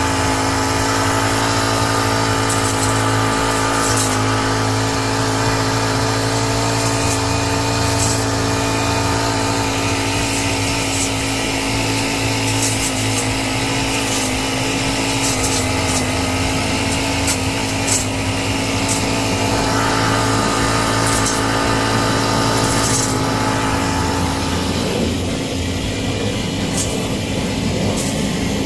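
Small petrol engine of a garden trimmer running steadily at working speed while cutting back plants.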